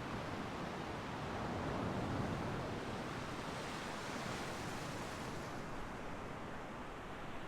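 Ocean waves breaking and washing up the shore: a steady rushing hiss that swells about two seconds in and turns to a brighter wash around four to five seconds in.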